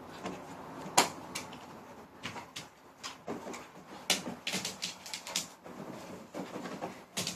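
Dogs playing: a run of sharp clicks and scuffles, the loudest about a second in, with a few short low growly vocal noises.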